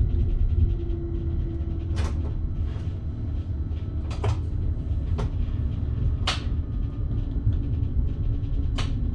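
Passenger train running on the line, heard from the driver's cab: a steady low rumble with about six sharp, irregularly spaced clicks and knocks.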